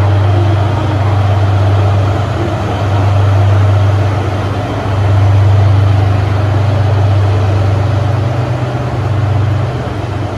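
Heavy engine idling: a loud, steady low hum that swells and eases a little.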